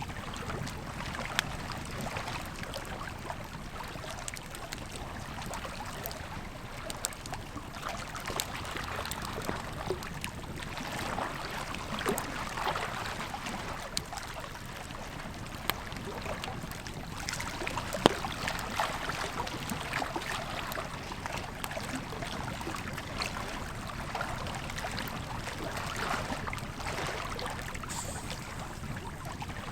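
Campfire crackling and popping in sharp, irregular clicks over the steady rush of a flowing river. One pop about eighteen seconds in is the loudest.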